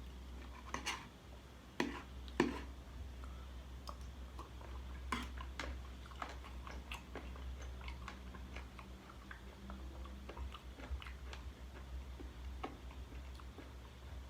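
A person chewing and biting spicy chicken-feet salad close to the microphone, with scattered sharp clicks and crunches, the loudest two about two seconds in, over a steady low hum.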